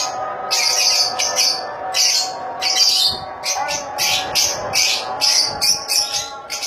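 A colony of lovebirds giving shrill, rapid chirping and squawking calls, several overlapping calls every second.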